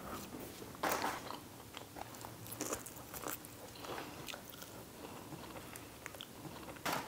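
Close-miked eating: quiet chewing with small wet mouth clicks and finger-licking, and a couple of slightly louder smacks about a second in and near the end.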